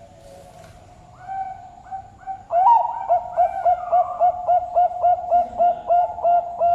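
Zebra dove (perkutut) cooing: a few soft coos, then about two and a half seconds in a loud opening note followed by a rapid, even string of short clipped coos, about four a second.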